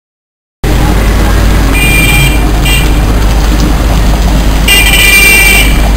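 Heavy rain and street traffic noise with a steady low wind rumble on the microphone, starting abruptly about half a second in. High-pitched vehicle horn toots sound twice briefly about two seconds in, then for about a second near the end.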